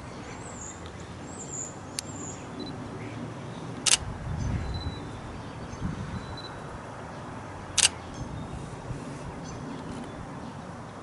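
Canon 90D DSLR shutter firing three times a few seconds apart, each a sharp click, with faint bird chirps behind.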